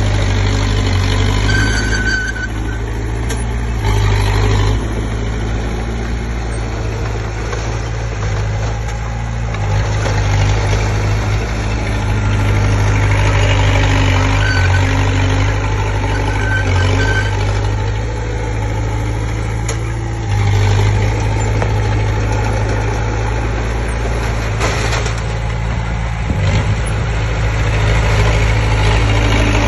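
Komatsu D20P bulldozer's diesel engine running steadily, its note stepping up and down a few times through the stretch, with a few brief high squeaks over it.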